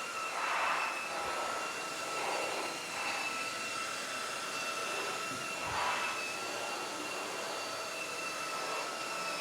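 Proscenic WashVac F20 cordless wet/dry floor cleaner running, a steady motor whine with a few swells of rushing suction noise.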